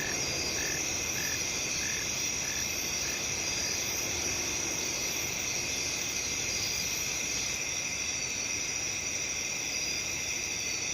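Steady chorus of crickets trilling, with a frog calling in short, evenly spaced notes, a little under two a second, that stop a few seconds in.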